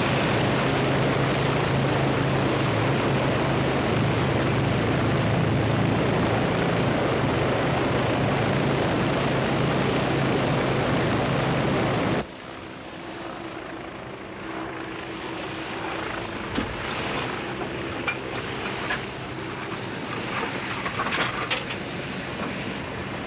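Loud steady engine drone with a low hum. It cuts off abruptly about twelve seconds in, giving way to a quieter background with scattered knocks and clicks.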